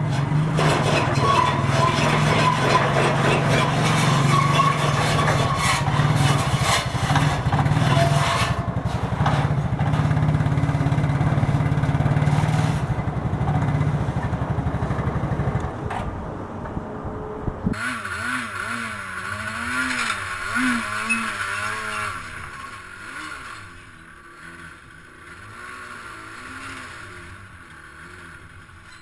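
ATV engine running steadily at a low, even pitch; about eighteen seconds in it stops abruptly and a quieter, wavering sound takes over.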